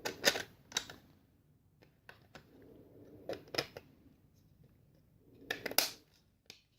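Light clicks and taps of small 3D-printed PLA plastic parts being handled and pushed into place, coming as scattered short clicks with a louder cluster near the end.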